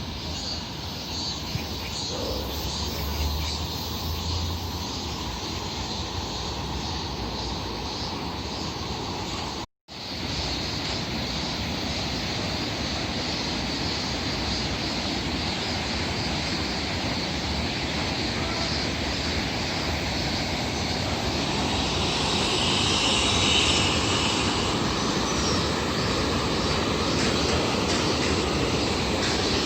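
Steady rushing noise of a stream running high after heavy rain, growing slightly louder. The sound cuts out for a moment about ten seconds in.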